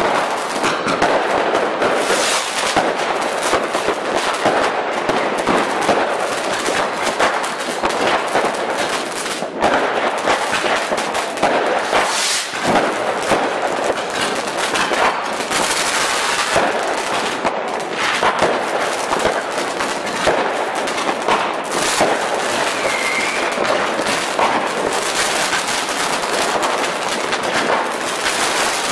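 Fireworks display: a dense, unbroken crackle of many rapid pops and bangs.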